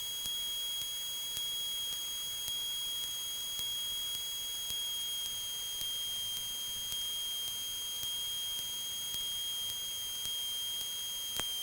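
Steady high-pitched electrical whine over a low hiss in the aircraft's intercom audio, with no voices on the line; the whine dips slightly in pitch near the end.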